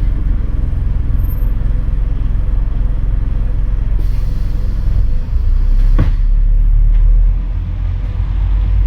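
Scania N230UD double-decker bus's five-cylinder diesel engine pulling hard, heard on board as a steady low rumble that grows louder about five seconds in. A single sharp knock comes about six seconds in.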